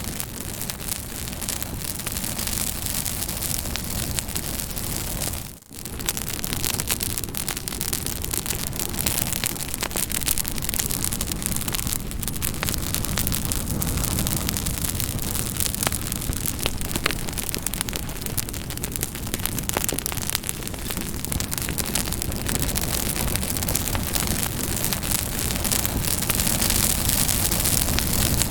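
Campfire burning, with many small crackles and snaps over a steady hiss. The sound dips briefly about five and a half seconds in.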